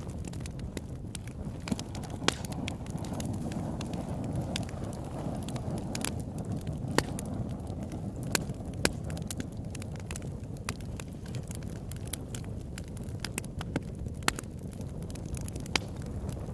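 Campfire burning: a steady low rush of flames with irregular sharp crackles and pops of burning wood, a few louder snaps among them.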